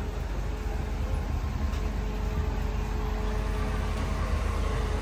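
A car engine running, a steady low rumble with a faint even hum.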